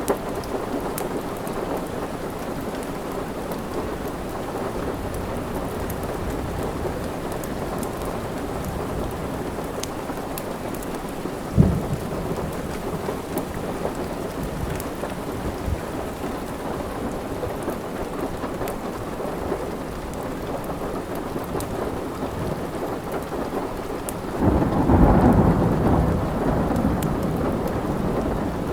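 Steady rain with the small pops and crackles of a wood fire in a fireplace. There is one sharp crack about twelve seconds in, and a roll of thunder rumbles up near the end and slowly fades.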